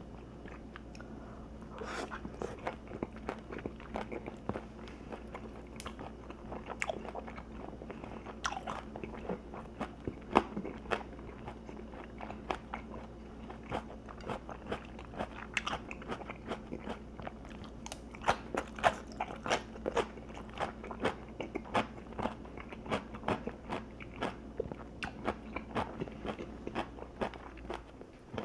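Close-up crunching and chewing of crispy battered sweet-and-sour pork, with many sharp crackly bites throughout. A steady low hum sits under it.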